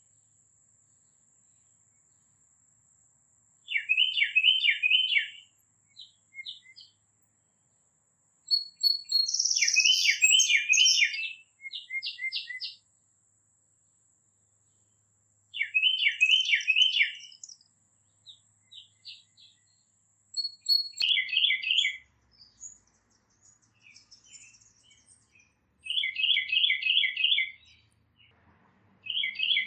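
A songbird singing: short phrases of five or six quick repeated notes, each phrase about a second and a half long, given every few seconds, with scattered single chirps between them.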